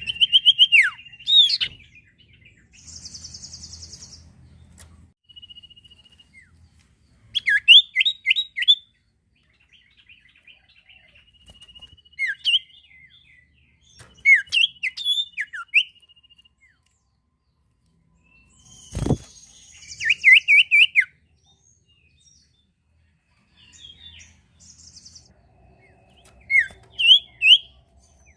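A small songbird, the one Indonesian bird-keepers call sirtu, singing in full voice. It gives repeated phrases of quick, sharp chirps and thin whistled notes every few seconds, broken by a single short knock about 19 seconds in.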